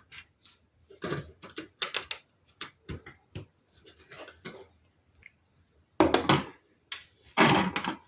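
Hard plastic LEGO Technic pieces clicking and clattering while being handled and snapped together, a run of small taps with louder rattling bursts about six and seven and a half seconds in.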